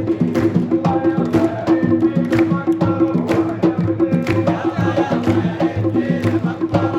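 Football-style supporters' crowd chanting together to a steady drum beat, about two beats a second.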